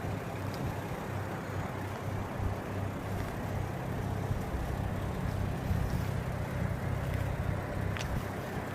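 Lexus IS200's straight-six engine idling steadily.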